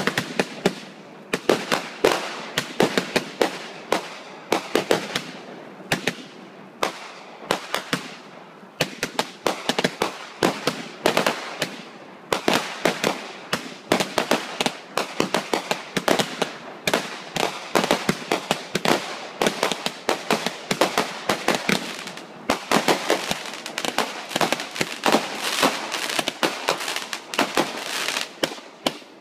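Fireworks display: a dense, unbroken barrage of sharp bangs and crackling from aerial shells and crackling stars, several reports a second.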